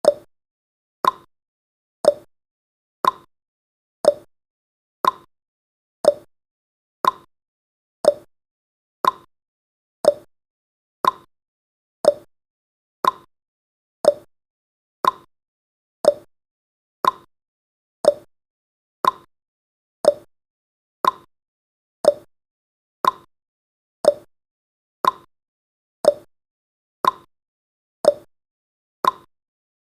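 Countdown timer's clock-tick sound effect: one short, sharp tick every second, steady and even, with silence between ticks.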